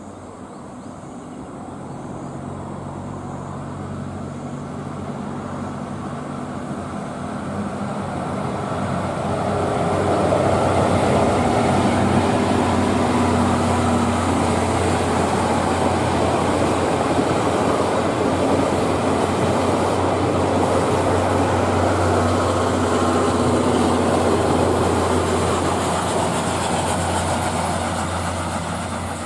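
A passenger train passes on a steep climb: an EF65 electric locomotive leading five 12-series coaches, with a C61 steam locomotive at the rear. A steady low hum and wheel-on-rail rumble build as it approaches, stay loud while the locomotive and coaches go by, and ease off near the end.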